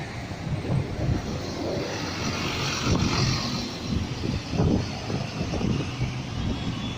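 Police helicopter overhead: a steady rumble of rotor and engine, mixed with passing road traffic.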